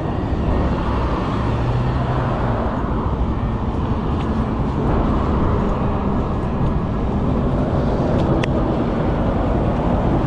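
Motorcycle riding at speed: steady wind rush over the rider's microphone with the engine running underneath.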